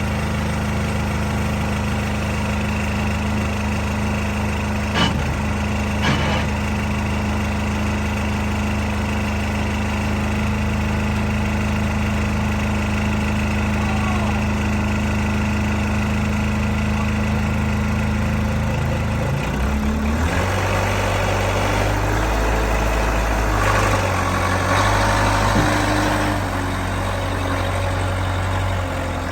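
Case 580 CK loader tractor's engine running at a steady idle, with two sharp knocks about five and six seconds in. About two-thirds of the way through the engine speed changes, the note stepping up and down for several seconds with added clatter before settling again.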